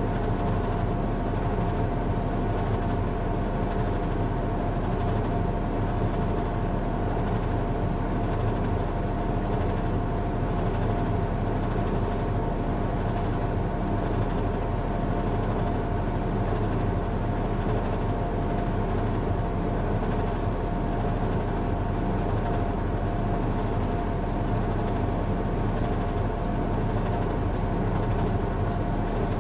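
Washing machine running on a strong cycle: a steady mechanical drone with a constant whine, unchanging throughout.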